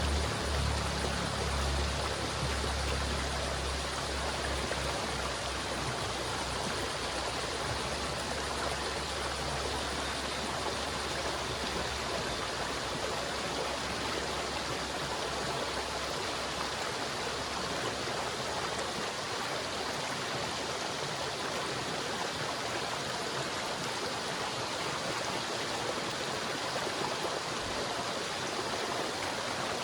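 River water flowing steadily, an even rushing noise. A low droning tone underneath fades out during the first dozen seconds or so.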